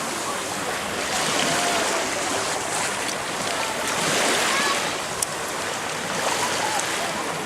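Sea surf washing in and breaking, swelling and easing in surges a few seconds apart.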